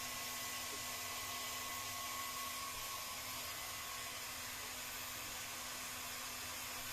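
Hot-air heat gun running steadily, blowing with a faint whine.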